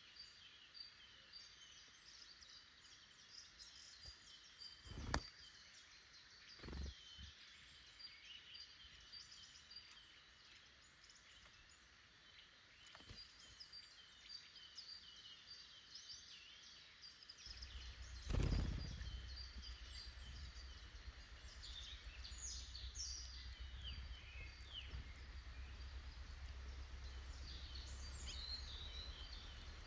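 Small woodland birds chirping and calling, many short high calls overlapping. A few sharp knocks stand out, the loudest a little past halfway. From about then a low steady rumble sits under the birdsong.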